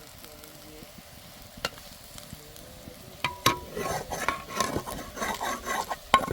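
A utensil stirring and scraping food in a pan, with sizzling. It is faint and sparse at first, then turns into busy, rapid scraping strokes about three seconds in.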